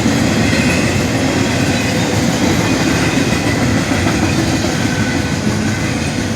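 Freight train cars rolling past on the track, a loud, steady rumble of wheels on rail.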